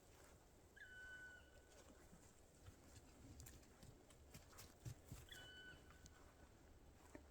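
Faint footsteps crunching in snow, heard as scattered soft clicks and thumps. Two short whistled calls, each a steady tone that dips slightly at its start, come about a second in and again past five seconds.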